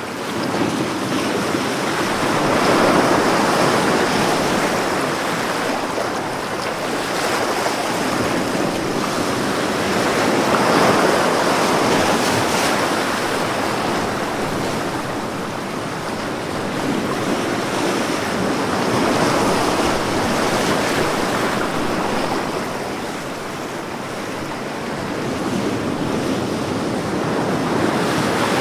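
Ocean waves breaking on a beach, a continuous wash of surf that swells and eases every several seconds.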